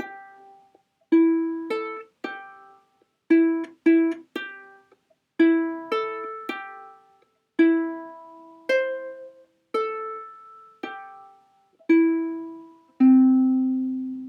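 A plucked string instrument playing an instrumental introduction as separate strummed chords, each ringing and fading. A longer, louder low chord rings on near the end.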